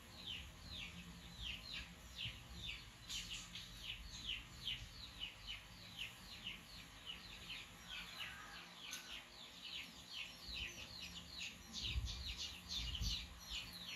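A bird chirping over and over, a steady run of short falling chirps at about three a second. A few soft low bumps and rustles come near the end.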